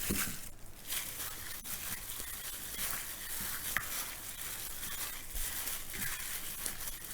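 Soft, continuous rustling and crinkling with a few faint clicks, from hands handling the marinating chicken and its bowl or wrapping.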